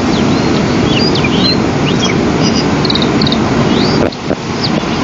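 Steady loud rushing noise, like wind on an outdoor camera microphone, with many short high bird chirps and whistles over it. Some of the chirps glide up or down, and some come in quick runs of three or four notes.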